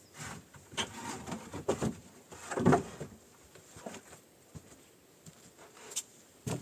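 Irregular knocks and scrapes of objects being handled, with the loudest knock about two and a half seconds in and a few lighter taps after it.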